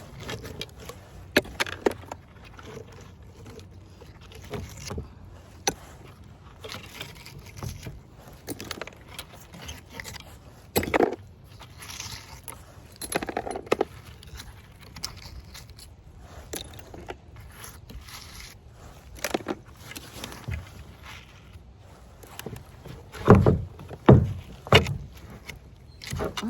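Scrap metal stuck to a magnet-fishing magnet clinking and scraping as it is handled, with scattered sharp clicks and a few louder knocks near the end.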